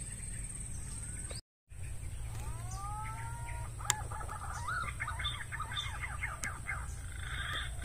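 Outdoor bird calls: two curved whistled glides, then a run of quick chirps, with two sharp clicks. A steady low hum runs underneath.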